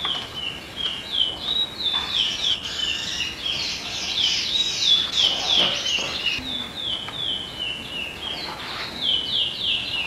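Birds chirping: a quick, unbroken string of short high chirps, each falling in pitch, several a second and overlapping.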